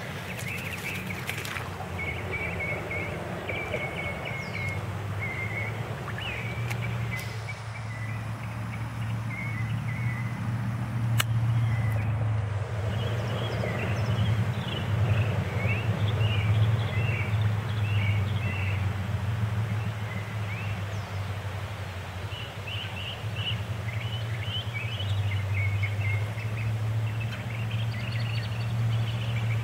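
Small birds chirping and twittering in bouts over a steady low rumble.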